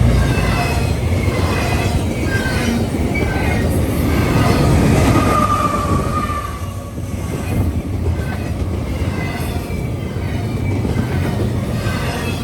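A train rolling by with a steady rumble, broken by short metallic wheel squeals and one longer squeal about five seconds in.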